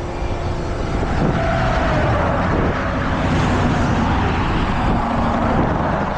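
Highway traffic passing close by: a steady wash of tyre and engine noise, with a faint falling tone from a passing vehicle about a second in.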